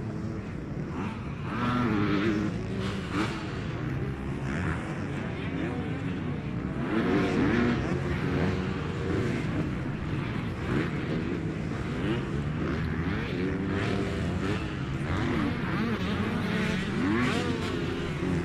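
Several motocross bikes racing on the track, their engines revving up and down so the engine notes keep rising and falling, one over another.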